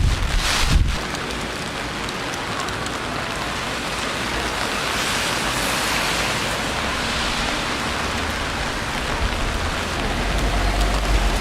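Steady rain falling on the street, an even hiss. A low rumble joins it in the first second and again near the end.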